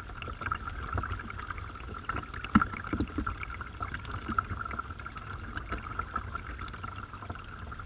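Garden waterfall: water falling and splashing into a pool, a steady splashing with a few louder splashes between about two and a half and three seconds in.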